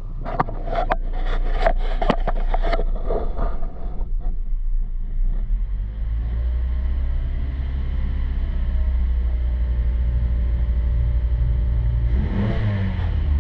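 2025 Mazda CX-50's 2.5 L four-cylinder engine idling steadily after a few sharp knocks in the first seconds, then revving up near the end.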